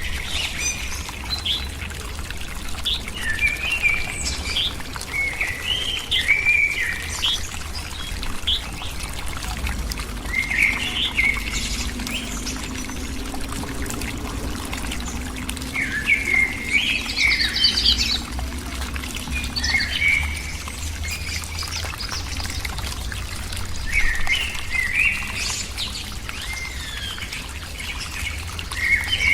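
Small birds chirping in short clusters of calls every few seconds, over the steady sound of running water.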